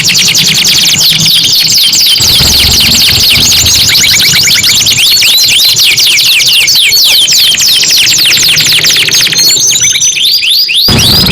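Domestic canary singing in fast trills: long runs of rapid, repeated, falling whistled notes.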